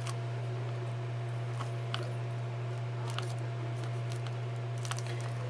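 A steady low hum, with a few faint light taps and rustles of paper being pressed down by hand.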